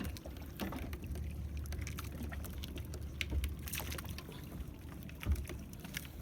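Water sloshing against a small fishing boat, over a steady low rumble, with scattered small knocks and clicks.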